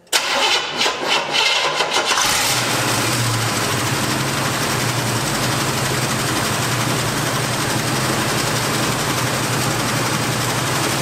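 Truck engine with a 750 Holley four-barrel carburetor running at a fast idle. It is uneven for the first two seconds, then steady. The owner puts the excess RPM down to the carburetor's transfer slots being opened too far, which swings the distributor's advance weights out and makes the timing run away.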